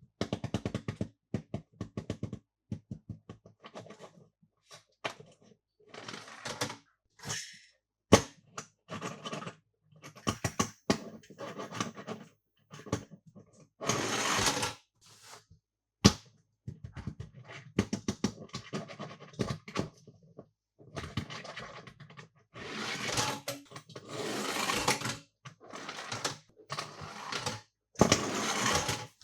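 Close-up handling of toys and their packaging: many short plastic clicks and taps, with several longer rustling, crinkling bursts, about halfway through and again near the end.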